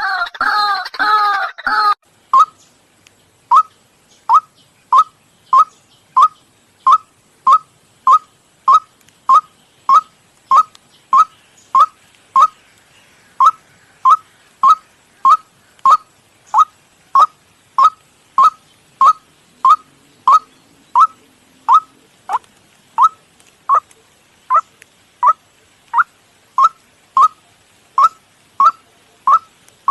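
White-breasted waterhen calls from a bird-trapping lure mix. The first couple of seconds hold overlapping calls, then a single short rising note repeats steadily, about three every two seconds.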